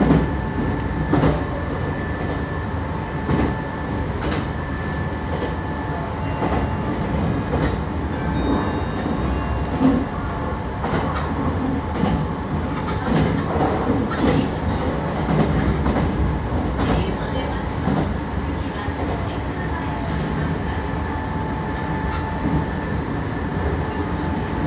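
Meitetsu 3150 series electric multiple unit running at speed, heard from inside the car: a continuous rumble of wheels on rail, with irregular clicks over rail joints and a steady high hum.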